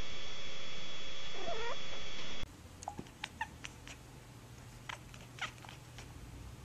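A cat gives a short, wavering meow over a steady high tone and hiss in the recording. After an abrupt cut about two and a half seconds in, the sound is much quieter, with scattered short clicks and small chirps from a second cat.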